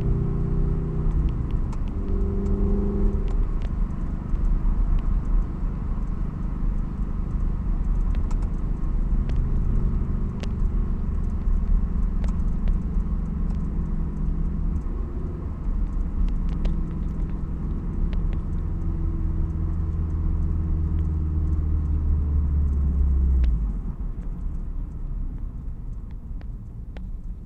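Toyota 86's FA20 flat-four boxer engine with unequal-length headers and an aftermarket exhaust, running under way with a low rumble. The engine tones shift in pitch as it drives, and about 23 seconds in the low rumble drops away and the sound gets quieter.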